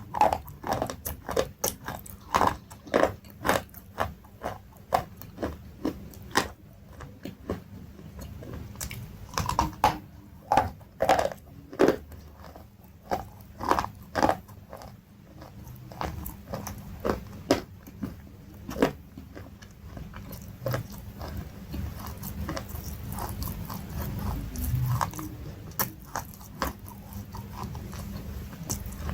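Close-up biting and chewing of something hard and brittle: sharp crunches one to two a second, thinning out and growing softer in the last third.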